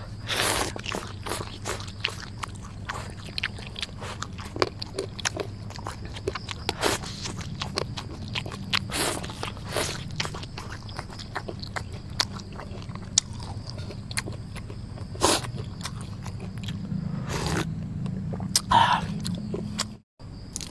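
A person eating close to the microphone, most likely instant cup noodles: irregular smacking chewing and slurping clicks, over a steady low hum.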